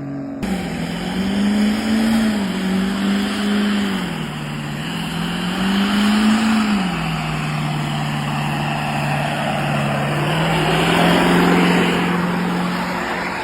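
Diesel truck engine revving, its pitch rising and falling three times, the last rev held longer.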